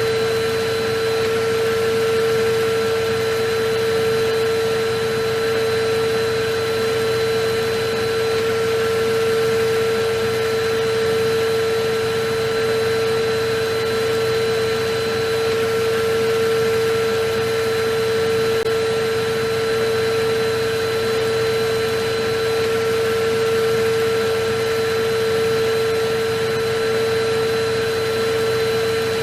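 Electric vacuum cleaner running continuously: a steady motor hum over an even rushing hiss, with no change in pitch or level.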